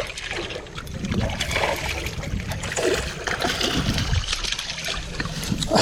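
Irregular water splashing as a hooked largemouth bass is reeled in close, over a low rumble of wind or handling on the microphone.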